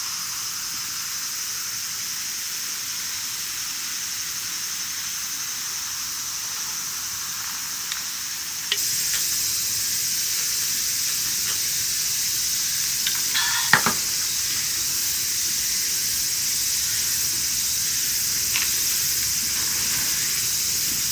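Food sizzling steadily in a hot pan; the sizzle gets louder about nine seconds in. A few light clicks of a utensil against the pan come near the middle.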